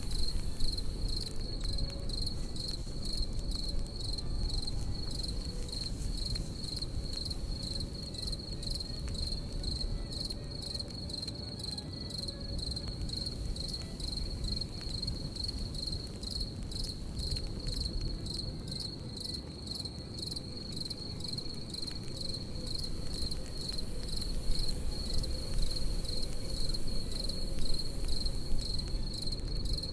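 Crickets chirping in a steady, fast-pulsing trill over a crackling campfire: scattered sharp pops and crackles from the fire above a low, steady rush.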